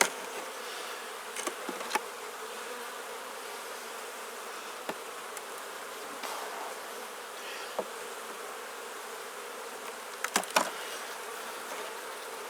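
Honeybees buzzing steadily around an opened Langstroth hive, a colony hum. A few sharp knocks or clicks at the start, about two seconds in and again about ten seconds in.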